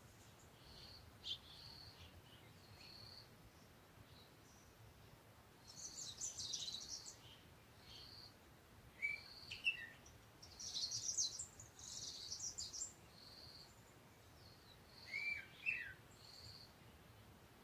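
Birds chirping: a short high note repeating every second or so, with two bursts of rapid chattering chirps midway and a few short swooping calls.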